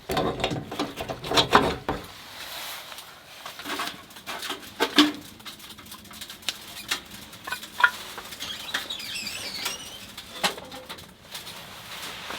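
Knocks and clatter of camp gear being handled and set down, busiest in the first two seconds, with single sharper knocks about five and eight seconds in. A small bird chirps briefly about nine seconds in.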